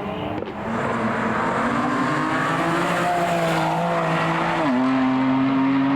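Rally car engine running hard at high, fairly steady revs on the tarmac circuit; the engine note drops a step about three-quarters of the way through, as at a gear change.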